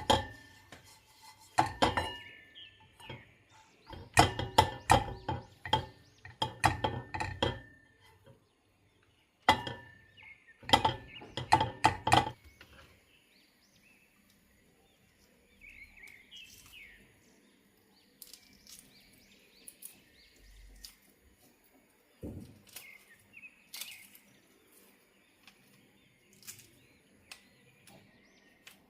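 Dishes and cutlery clinking and knocking in quick clusters, some strikes ringing briefly. About twelve seconds in the clatter stops, leaving faint bird chirps and an occasional soft knock.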